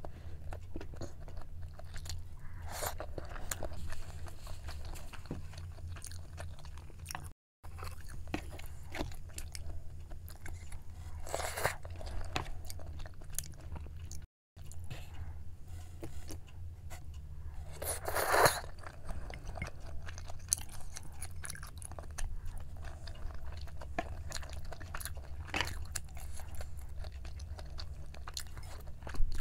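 Close-miked eating sounds: a person chewing and biting pieces of braised chicken (jjimdak), with wet mouth sounds and light clicks and a few louder mouth noises, over a steady low hum. The sound cuts out twice for an instant at edit points.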